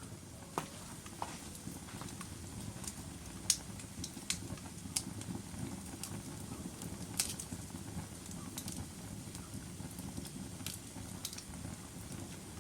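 Wood fire burning in a fireplace: a steady low rumble of flames with irregular sharp crackles and pops from the burning logs, the loudest pops about three and a half and seven seconds in.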